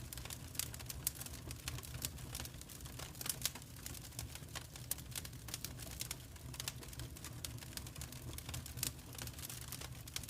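Wood fire in a fireplace crackling: a dense run of sharp irregular pops and snaps, several a second, over a low steady rumble of burning.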